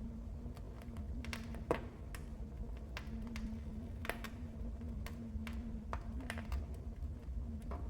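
Wood fire crackling in a fireplace: irregular sharp pops and snaps over a low steady rumble of the flames, with a louder pop about two seconds in.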